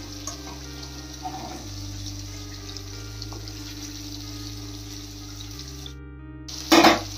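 Paneer cubes shallow-frying in oil and spices in an iron kadhai on high flame: a steady sizzle as they are turned with a slotted spoon. Quiet background music with low held notes runs underneath, and a short, louder burst of noise comes near the end.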